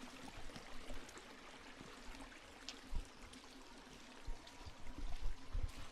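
Steady hiss of running water, like a stream trickling, with a few dull low thumps about three seconds in and again near the end.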